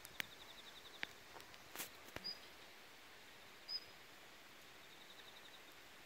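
Small wild songbird calling faintly: two short, high, thin notes about two seconds in and again near four seconds, with a few sharp clicks in the first two seconds. A faint, fast ticking trill is heard near the start and again about five seconds in.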